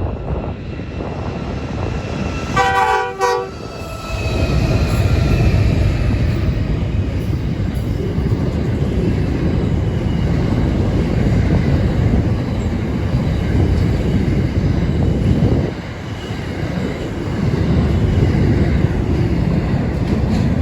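A short blast on a diesel freight locomotive's multi-tone horn about three seconds in. Then a heavy rumble as the NR-class diesel-electric locomotives and loaded freight wagons pass close by.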